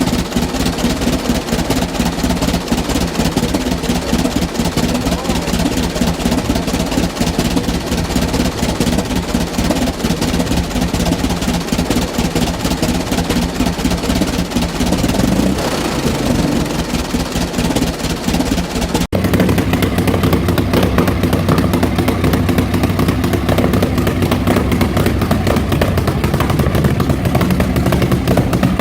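A combustion engine running with a steady note and a rapid firing beat, then a sudden cut about nineteen seconds in to another engine running with a lower, heavier note.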